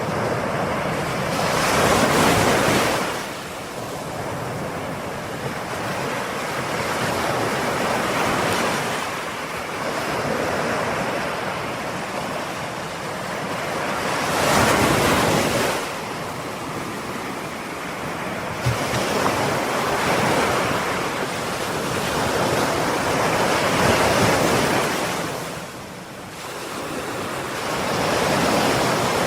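Ocean waves breaking and washing on a shore, a steady roar of surf that swells with each breaker and ebbs between them, loudest about two seconds in and again midway through.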